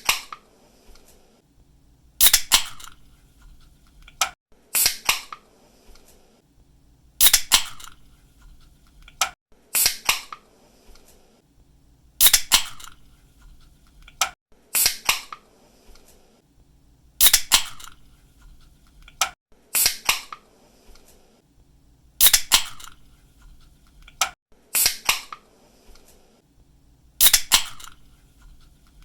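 Aluminium soda or energy-drink can being opened again and again: a light click of the tab, then a sharp snap with a short hiss of escaping gas, repeating about every two and a half seconds.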